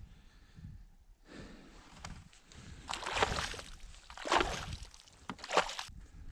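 Water sloshing and splashing in a freshly cut ice hole, in separate splashes that grow louder in the second half, the strongest three about a second apart.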